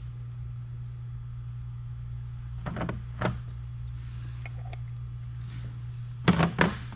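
Light knocks and clicks from tools and parts being handled on a workbench, in two short clusters about three seconds in and near the end, over a steady low hum.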